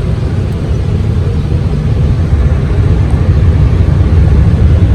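Automatic car wash rinse water spraying onto the truck, heard from inside the cab as a steady low rumble with a hiss over it, growing a little louder about two seconds in.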